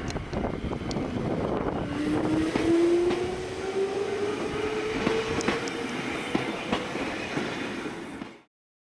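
Wakayama Electric Railway electric train running on the rails with clatter and clicks. From about two seconds in, its motor whine rises steadily in pitch as it picks up speed. The sound cuts off abruptly near the end.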